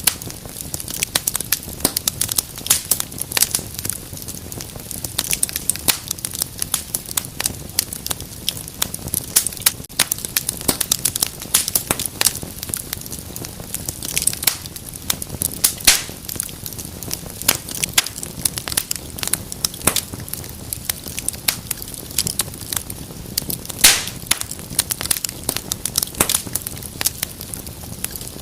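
Wood fire burning in a fireplace, crackling with many small irregular snaps and occasional louder pops over a low steady rumble of flame.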